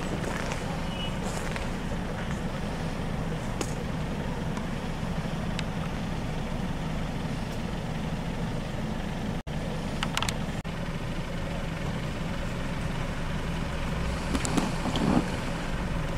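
Steady low rumble of a car engine idling close by, with a brief dropout a little past halfway and a few short clicks after it and near the end.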